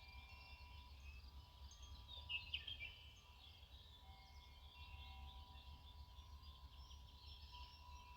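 Faint outdoor ambience with small birds chirping, with a louder cluster of chirps about two and a half seconds in, over a low steady rumble.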